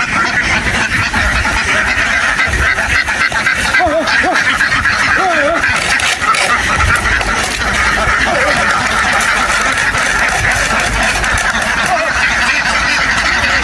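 A large flock of ducks quacking continuously, a dense, steady chatter of many birds at once.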